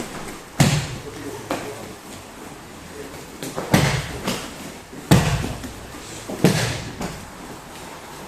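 Irregular thuds and scuffs of feet and bodies on dojo training mats as two people work through a rear-choke self-defence technique. There are about seven impacts, the heaviest about half a second in and about five seconds in.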